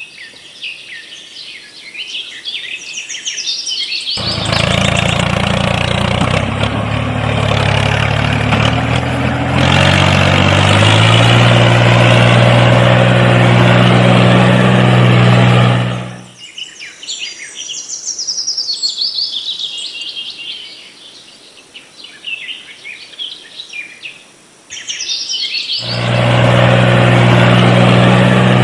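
Birds chirping, joined by the small motor of a homemade miniature tractor: a steady hum that rises in pitch as it speeds up, then runs at a constant speed, stops abruptly, and starts again near the end.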